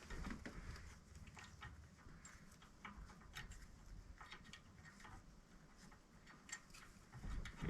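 Faint, irregular clicks and light taps of hand tools and bolts being handled while an A/C compressor is mounted, with a low knock or bump just before the end.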